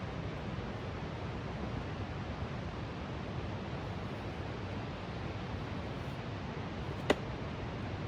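Steady rushing background noise with one sharp click near the end.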